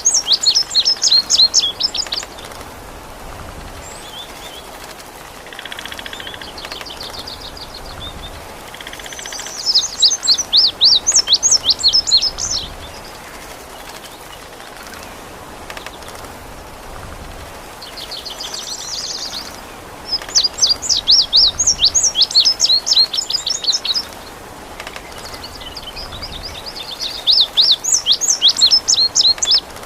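An indigo bunting singing, in bursts of a few seconds of rapid, high, sweeping notes repeated several times, over a steady hiss of rain or running water.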